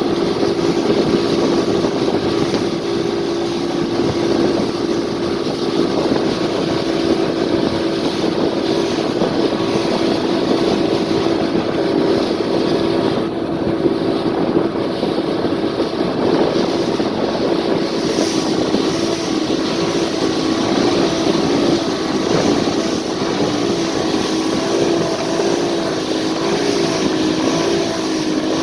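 Motorboat engine running steadily over a rush of wind noise. Its pitch wavers up and down in the last few seconds.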